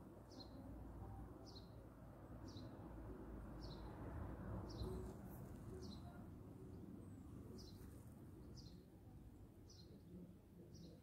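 A small bird calling, a short high chirp that sweeps downward, repeated about once a second, over a faint low rumble.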